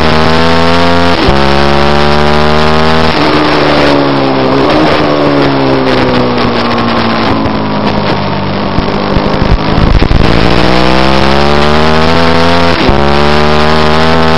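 Middleweight supersport race motorcycle engine at high revs, heard onboard with wind rush. The pitch climbs, dips at an upshift about a second in and climbs again. It then falls slowly for several seconds as the bike slows and leans through a turn, then climbs hard again with another upshift near the end.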